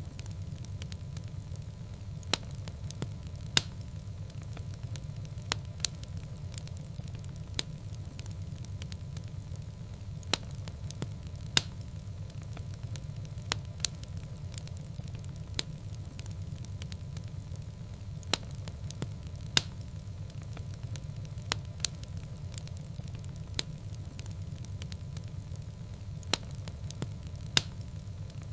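Wood fire burning in a fireplace: a steady low rumble of the flames with irregular sharp crackles and pops from the burning logs, one or two a second.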